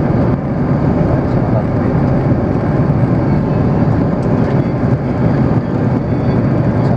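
Steady cabin noise of an Airbus A330 airliner: a constant, even roar of engines and airflow.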